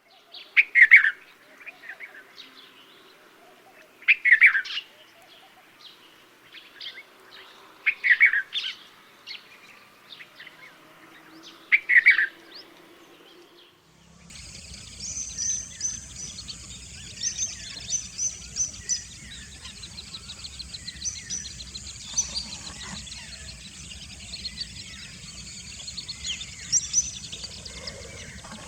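Wild birds calling: one loud call repeated four times, about every four seconds, then from about halfway a dense chorus of many quick, high chirps over a low rumbling background noise.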